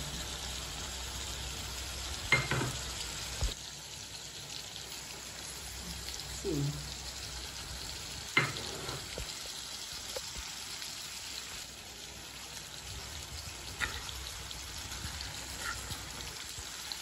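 Mango slices sizzling steadily in oil in a black iron kadai, as the sweet-and-sour mango pickle cooks. A few sharp clinks of a metal spoon against the pan come about two, eight and fourteen seconds in.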